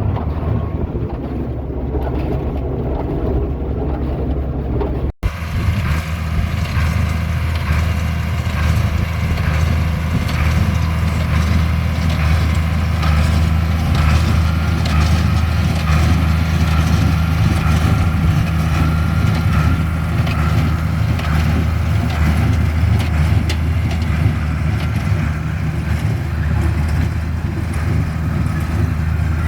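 Tractor engine running steadily at constant speed, with a brief break about five seconds in.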